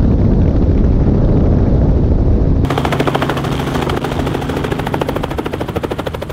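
Helicopter: a heavy rumble with wind buffeting at first, then, after an abrupt change about two and a half seconds in, the rapid even beating of the rotor blades over a steady engine hum, slowly fading.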